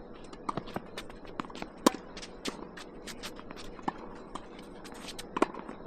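Tennis rally: sharp pops of racket strings hitting the ball, loudest about two seconds in and again near the end, amid many quick scuffs and taps of players' footsteps on the court.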